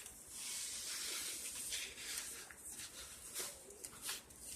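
Paper and cardstock rustling and sliding as the folded photo mats of a scrapbook exploding box are handled, with a longer hissing rustle near the start and small scrapes and taps after.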